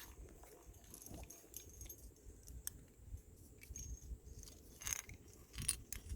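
Climbing hardware such as metal carabiners and quickdraws clinking on a harness in scattered light clicks as the climber moves, over a faint low rumble.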